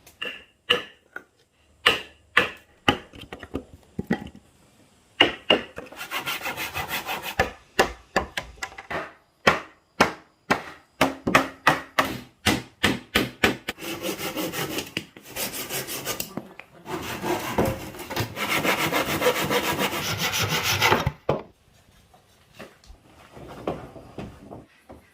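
Wood being worked by hand: a handful of sharp knocks at first, then long runs of rhythmic hand-sawing strokes through wood, which stop a few seconds before the end.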